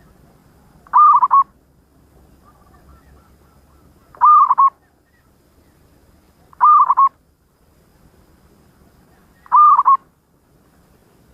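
Zebra dove (perkutut) cooing: four short, rolling calls, each about half a second long, spaced roughly three seconds apart.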